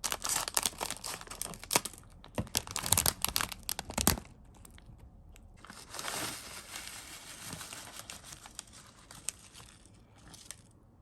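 Crinkly plastic sweet and chocolate wrappers being handled: a dense run of sharp crackles for about four seconds, then a softer rustle.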